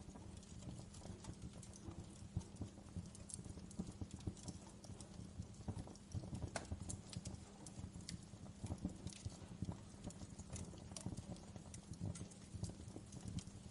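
Wood fire crackling in a fireplace: irregular snaps and pops, some sharper than others, over a low steady rumble.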